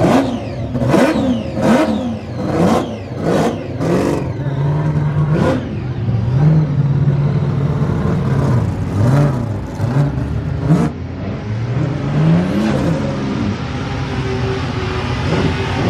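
Supercharged Holden Torana street machine being revved in sharp throttle blips, about six in the first six seconds. After that the engine idles, with more revs rising and falling.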